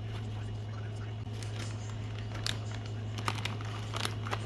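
A steady low hum with a few short, scattered clicks and crinkles in the second half, like small objects or paper being handled.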